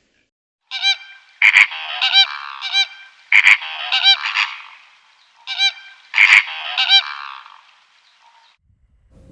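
Geese honking: a run of loud, harsh honks in three clustered bursts, each with a few quicker honks after it.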